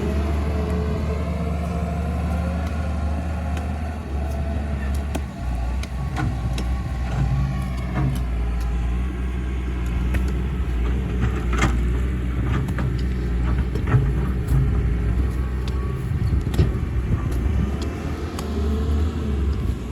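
Excavator's diesel engine running steadily under digging load, with scattered sharp knocks and clanks from the working machine, more of them in the second half.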